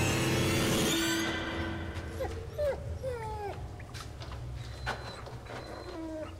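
Tense background music fading out about a second in, followed by a few short, falling squeaky animal calls over a low steady hum.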